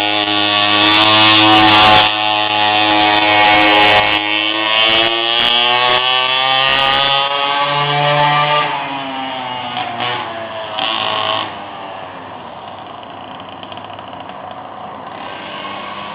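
Mini pocket bike's small engine running loud, its pitch wavering as it revs and then falling about eight seconds in. The sound drops sharply to a much quieter steady drone a few seconds later.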